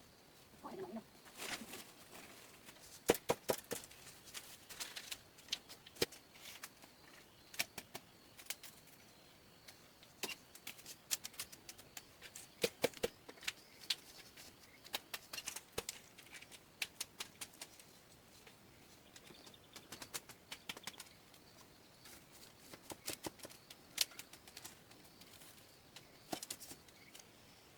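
Irregular light knocks and clicks, often several in quick succession, over a faint steady background.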